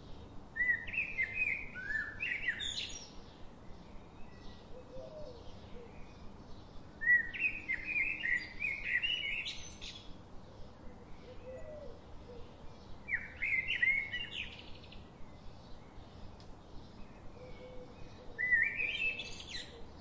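A bird singing four short phrases of quick chirps and glides, roughly every five to six seconds, over a faint steady ticking.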